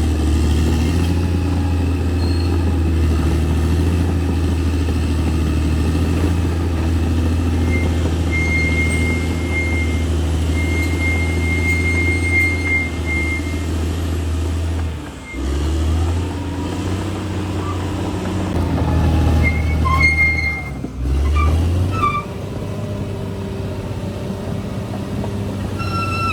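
Crawler bulldozer's diesel engine running steadily as the dozer works, with a thin high whistle for a few seconds in the middle. The engine sound drops away briefly twice in the second half.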